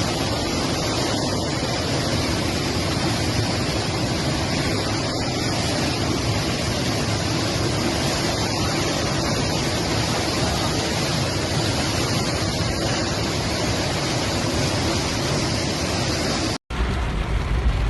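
Fast-flowing floodwater rushing in a steady, loud, even stream. It cuts off abruptly near the end and gives way to a lower rumbling noise.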